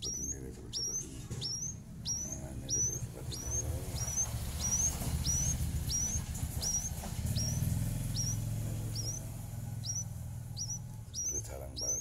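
A small bird's short, high chirp repeated steadily about twice a second, over a low rumble.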